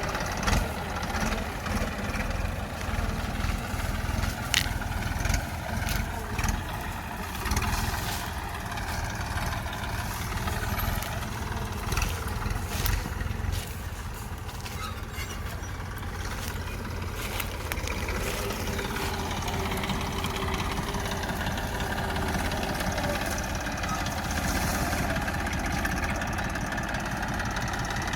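Tafe 45 DI tractor's three-cylinder diesel engine running steadily while pulling a heavy sugarcane trailer of about eight tonnes, with scattered knocks and clanks through the first half.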